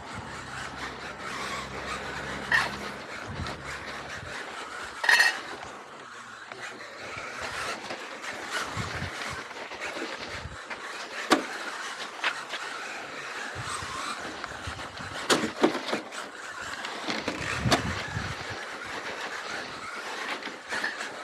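Xray XB4 electric 4WD RC car running a rally stage on pavement: steady tyre and drive noise, with several sharp knocks, the loudest about five seconds in.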